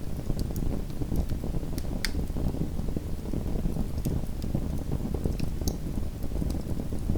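Small wood fire in a home fireplace, crackling: irregular sharp pops and snaps over a steady low rumble of the burning, with one louder pop about two seconds in.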